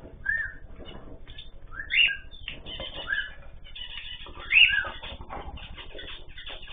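Pet cage birds calling with a few short rising chirps, the loudest about two and four and a half seconds in, over steady light clicking and rustling in the cage.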